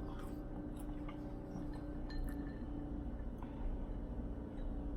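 Faint chewing and mouth sounds, a few soft clicks and squishes over a steady low room hum.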